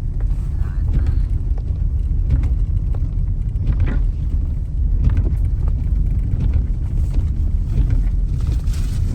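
Blizzard wind buffeting the microphone: a loud, steady, gusty low rumble.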